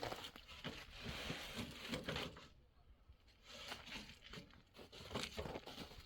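Irregular rustling and crinkling, like material being handled, with a quieter lull about halfway through.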